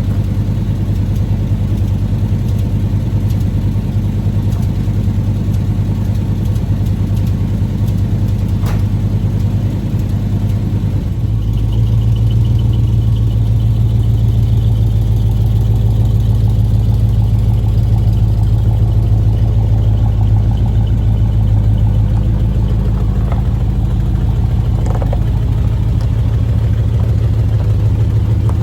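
Chevrolet Chevelle's engine running at idle just after being started, a steady low note that changes character about eleven seconds in.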